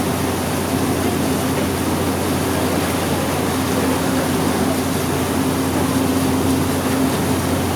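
A passenger ferry's engine running steadily, a constant low hum with an even rushing noise over it.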